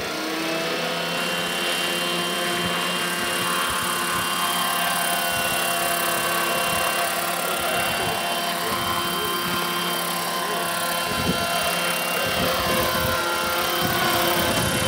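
Scale model UH-1D Huey RC helicopter flying, its rotor and drive giving a steady mix of whining tones over a broad rush, the pitch drifting slightly up and down as it manoeuvres.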